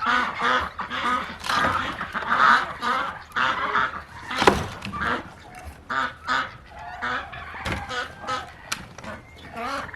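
Farm poultry calling loudly, with harsh honking calls repeated over and over, and a single sharp thump about halfway through.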